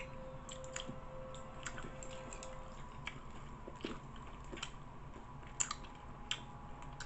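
Faint close-up chewing of Skittles fruit candies, with scattered small mouth clicks.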